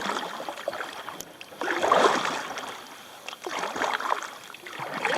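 Kayak paddle strokes splashing through shallow water, a stroke every one to two seconds, the loudest about two seconds in.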